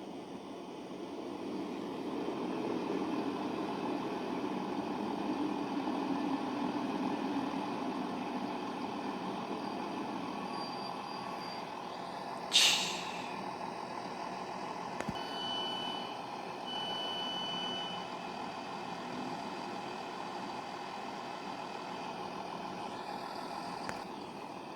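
Class 166 diesel multiple unit running into the platform with a steady rumble that builds and then eases as it slows. About halfway through there is one short loud hiss of air brakes, followed by two steady high beeps a second or so apart.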